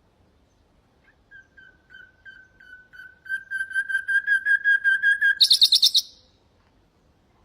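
Nightingale song phrase: a run of repeated clear whistled notes, about three or four a second, swelling steadily in loudness. It ends about five and a half seconds in with a short, louder, higher-pitched rapid trill that stops abruptly.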